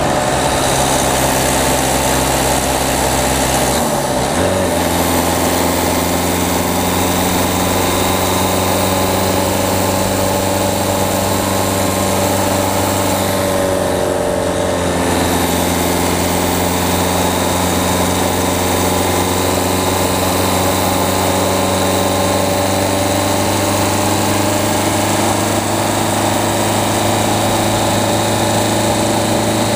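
Peugeot 208 diesel engine running as the car drives, heard from the front of the car, over a steady rush of road and wind noise. The engine note shifts about four seconds in and dips again around fourteen seconds in, then holds steady.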